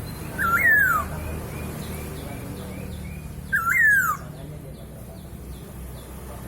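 Poksay hongkong laughingthrush giving two loud calls about three seconds apart, each a quick rise then a long falling swoop, with soft high notes in between.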